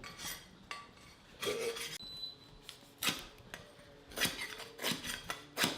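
Irregular sharp taps and knocks of small wooden pieces and tools being handled on a work surface, about seven over a few seconds.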